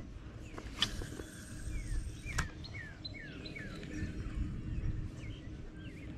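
A bird calling in a quick series of short, falling chirps, about two or three a second, over a low, steady outdoor background, with two sharp clicks in the first few seconds.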